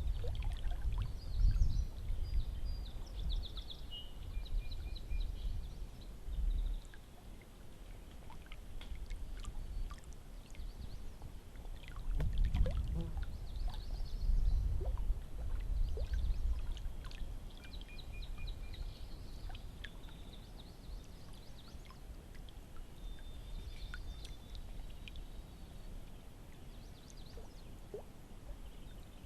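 Canoe being paddled: water splashing, pouring and dripping off the paddle, with scattered light knocks. Birds sing short repeated phrases throughout, and there are two stretches of low rumble early and in the middle.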